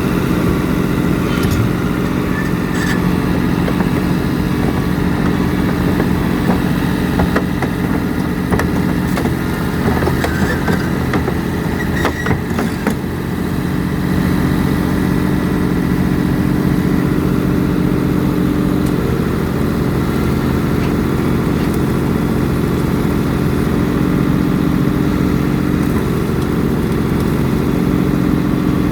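Heavy diesel engine of a pile-driving rig running steadily, with a few scattered metallic knocks in the first half and slight changes in engine speed later on.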